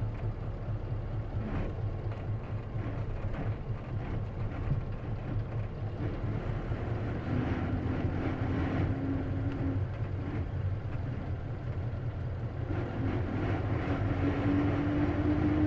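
Isuzu KC-LV380N city bus heard from inside while under way: a steady low engine and road rumble. A whining tone that rises slightly comes in twice, for a few seconds each time, about halfway through and again near the end. This is the bus's known abnormal noise, which the owner thinks may be a symptom that can occur on manual-transmission buses.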